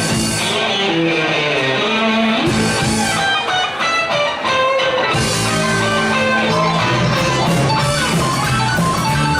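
Live band playing an instrumental passage led by electric guitar, with the bass end filling in about five seconds in.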